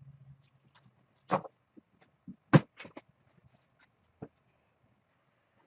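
A few scattered sharp clicks and knocks, as of small hard objects being handled and set down, with the loudest about two and a half seconds in.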